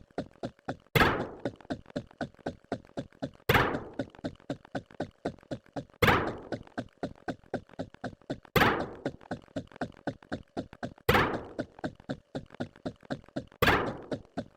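A repeating knocking pattern: a loud thunk about every two and a half seconds, six in all, each dying away over about half a second, with quick light ticks, about four a second, running steadily in between.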